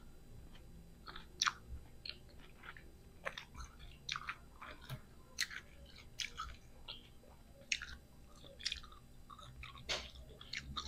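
Close-up crunchy chewing of unripe green mango slices: irregular crisp crackles, about two a second.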